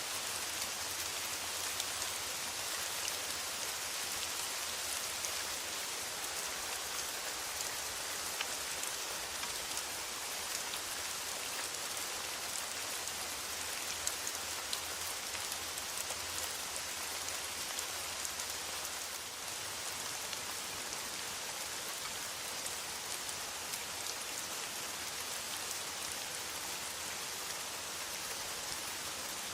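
Steady rain on a metal roof, an even hiss with many small drop ticks scattered through it.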